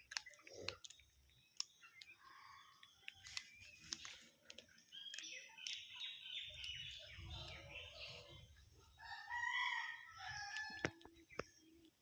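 Chickens calling, with pitched calls that grow stronger in the second half and scattered sharp clicks. A low rumble runs underneath for a couple of seconds midway.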